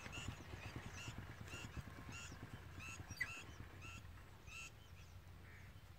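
A bird calling repeatedly: about ten short calls, roughly two a second, that stop about three-quarters of the way through. Soft footsteps and rustle sound underneath.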